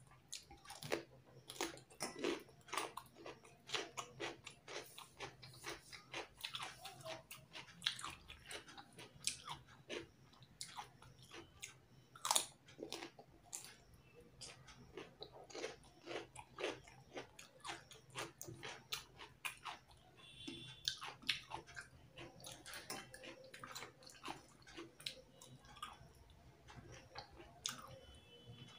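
Close-up chewing and biting of a person eating rice and fish curry by hand: irregular wet mouth clicks and smacks several times a second, with some crunchy bites, over a faint steady low hum.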